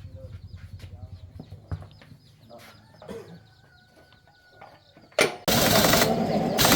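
Chickens clucking faintly. About five seconds in, a loud rattling power tool starts up and runs.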